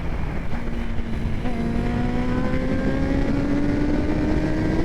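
Honda CBR650's inline-four through an aftermarket exhaust, pulling under throttle in one gear, its pitch rising slowly and steadily for several seconds. Wind rumble on the microphone underneath.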